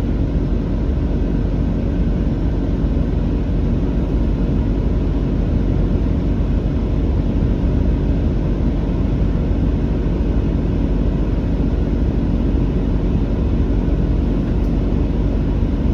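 Steady cabin noise inside a moving Class 166 diesel multiple unit: engine and wheels on rail, even and low-pitched throughout.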